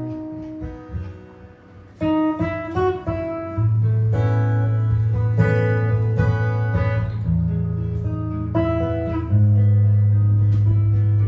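Solo jazz guitar improvising: picked melody notes and chords over long-ringing low bass notes. Sparse and soft for the first two seconds, then fuller struck chords from about two seconds in.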